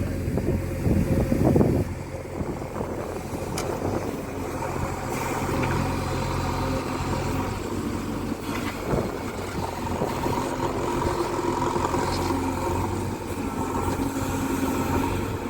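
JCB backhoe loader's diesel engine running steadily, louder for the first couple of seconds, with a few short knocks over it.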